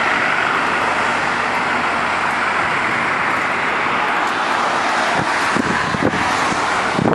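Steady rushing noise of a running sanitation truck, with a few low bumps in the last couple of seconds.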